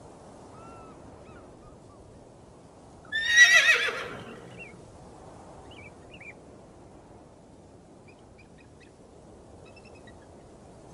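A horse whinnying once, about three seconds in: a loud, quavering call that falls in pitch over about a second. Beneath it runs a faint steady hiss.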